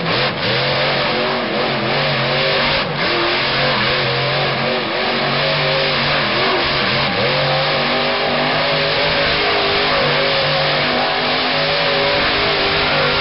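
Monster truck engine revving loudly, its pitch rising and falling continuously as the throttle is worked.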